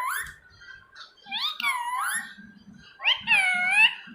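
A pet parrot making drawn-out, pitched calls, three or four in all, each dipping in pitch and rising again; the longest and loudest comes near the end.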